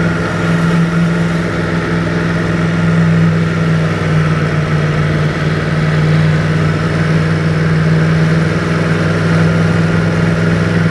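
Yamaha MT-10's crossplane inline-four with an Akrapovic exhaust running at a steady, low-rev cruise, its note holding even with no revving.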